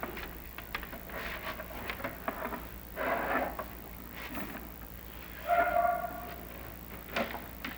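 Chimney inspection camera and its cable knocking and scraping against clay flue tiles as it is lowered down the flue, in irregular clicks and short scrapes, with a brief squeak a little past the middle.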